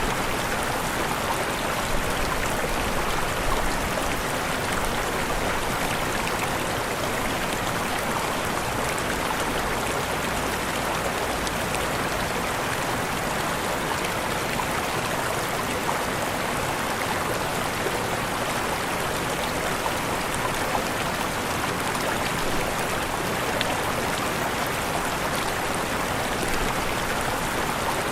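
Waterfall: a steady rush of falling water, even and unbroken, strongest in the middle of the range.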